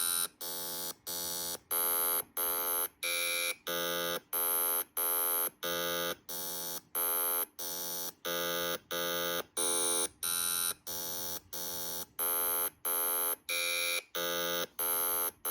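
Arduino-driven buzzer playing a string of short, buzzy electronic beeps, about two a second, the pitch changing from beep to beep: data turned into sound by a sonification algorithm.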